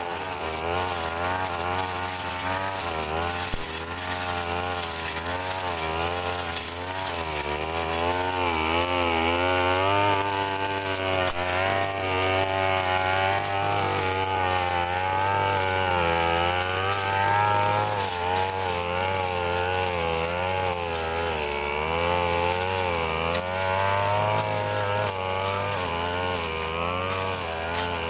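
Brush cutter engine running at high revs while cutting grass. Its pitch wavers up and down about once a second as the load on the blade changes.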